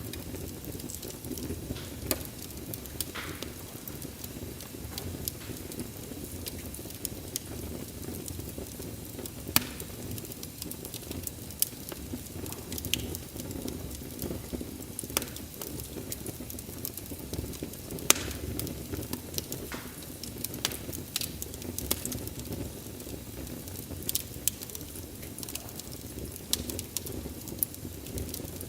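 Wood fire crackling: a steady low rustle of burning with frequent sharp pops and snaps, a few louder ones such as about 10 and 18 seconds in.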